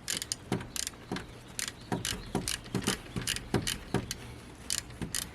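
Sharp metallic clicks and light knocks, about two a second and somewhat irregular, from hand tools and parts being worked in the engine bay while the alternator and its drive belt are fitted.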